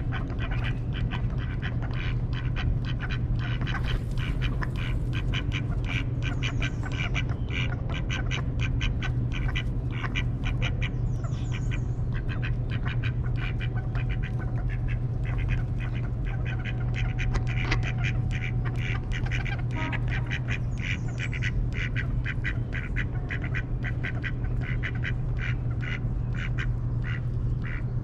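A group of ducks quacking and calling in quick, busy succession, with a steady low hum underneath.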